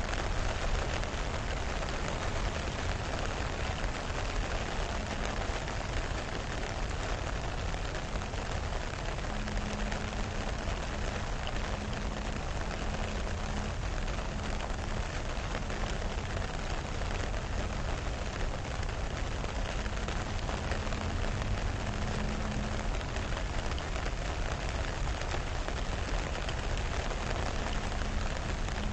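Steady rain falling on a lake and the grass beside it: an even hiss with a low rumble underneath.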